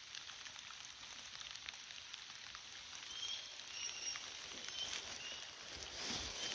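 Steady rain falling, a soft even hiss with fine patter, with a few short faint high chirps in the second half.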